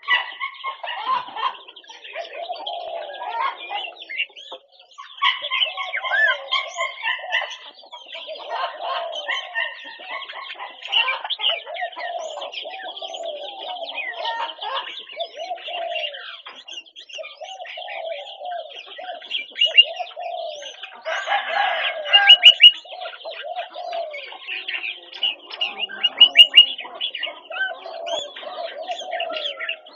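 Red-whiskered bulbuls chirping and whistling in quick, overlapping phrases, over a steady run of lower, repeated calls from other birds, with a few louder bursts of calling.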